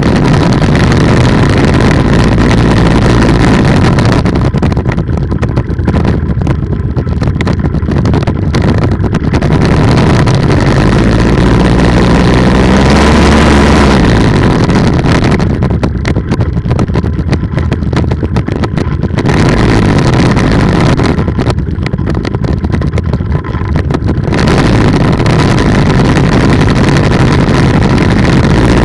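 Polini 190 single-cylinder two-stroke engine running on an ultralight trike, loud and steady, freshly started and warming up. About halfway through, the revs rise briefly and fall back.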